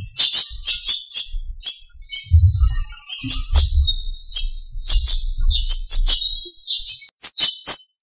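Small birds chirping: a rapid run of short, high-pitched notes throughout, with a thin held trill through the middle. A low rumble sits beneath from about two seconds in until six and a half seconds.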